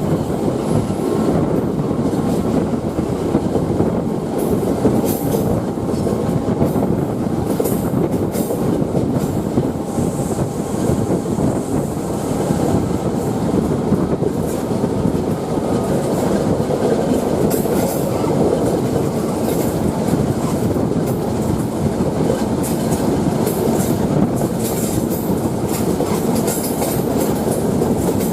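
Passenger train running along the line: a steady rumble of wheels on rail, with many short sharp clicks and clacks from the running gear.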